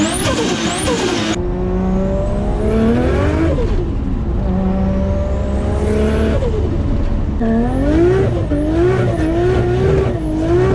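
Nissan Skyline R33's built RB25DET turbo straight-six pulling hard: the engine note climbs and drops sharply at each gear change, twice, then wavers up and down near the end.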